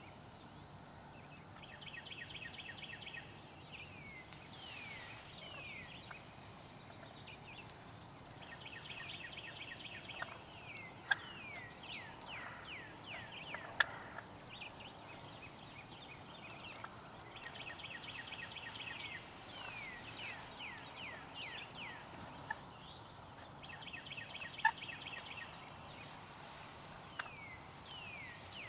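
An insect trilling on one high steady pitch, in quick regular pulses for about the first half and then unbroken, with songbirds singing repeated series of short downward-slurred notes beneath it.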